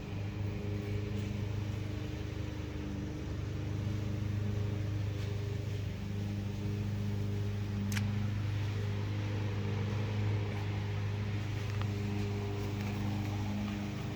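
Car engine running with a steady low hum. A single sharp click about eight seconds in.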